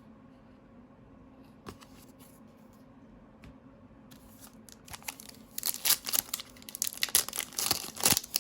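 A foil trading-card pack wrapper being torn open and crinkled, a dense run of irregular crackles from about halfway through. Before it there is only a quiet room hum and a couple of faint clicks.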